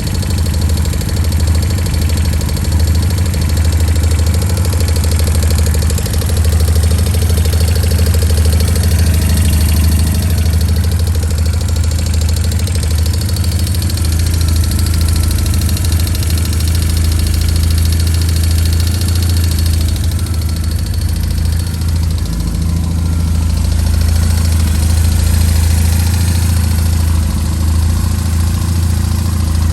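BMW R1150RS air/oil-cooled boxer twin idling steadily, with a fast ticking and clattering from the engine, the noise the owner is comparing between the right and left cylinders.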